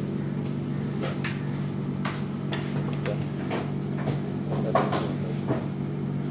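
Scattered knocks and clinks, about nine in all, over a steady low hum: the handling of plates and cups at a snack counter.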